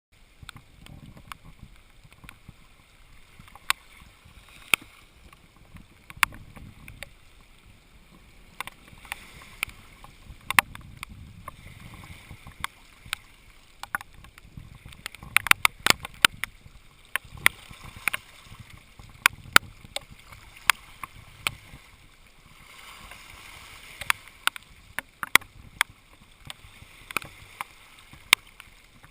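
Raindrops striking hard surfaces close by, heard as sharp, irregular ticks, over water lapping and sloshing against a small boat.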